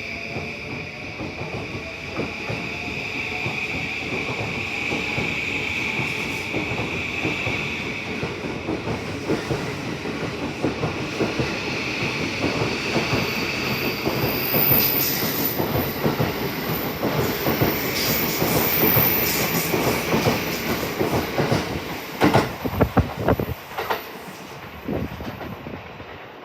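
Electric commuter train pulling out along the platform: its traction motors whine, rising in pitch in the first seconds, over a steady rumble of wheels on rail. A high thin wheel squeal comes in midway, and near the end the wheels clatter over rail joints in a quick run of clicks.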